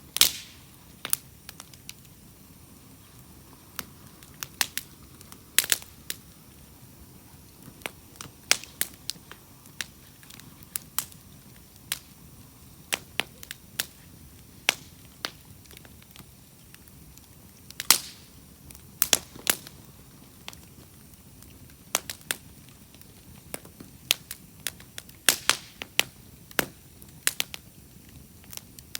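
Wood campfire crackling: a steady low hiss broken by sharp, irregular pops and snaps of burning firewood, a few every second or two, the loudest just at the start and at about 18 seconds.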